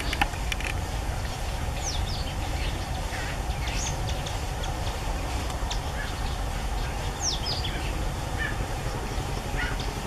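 Scattered short, high bird chirps, a few of them quick falling notes about two, four and seven seconds in, over a steady low rumble.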